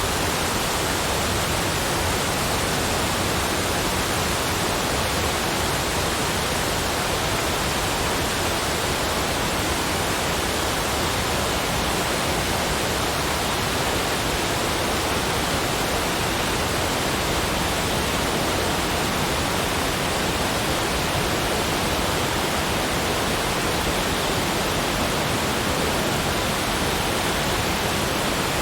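Steady, even rushing noise of falling water, with no separate sounds standing out.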